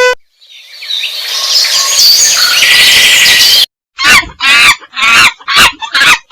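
Many birds chirping together in a dense chorus that swells up over about three seconds and stops abruptly, then, after a short gap, a quick series of about six short calls that bend in pitch.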